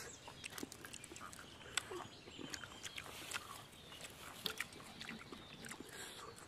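Faint mouth sounds of eating beetle larvae: chewing and lip-smacking, heard as a scatter of small, irregular clicks.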